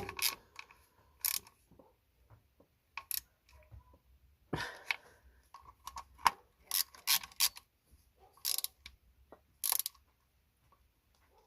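Ratchet wrench clicking in short, irregular runs as the bolts holding a Smart 451's clutch actuator are tightened.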